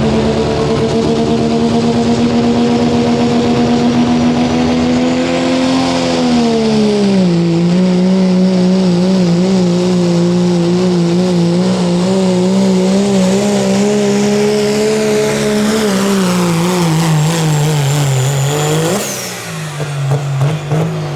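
Turbocharged diesel pickup truck engine under full load, pulling a sled; its steady high-rev note sags in two steps as the pull bears down. Near the end the note jumps briefly, then falls away and gets quieter.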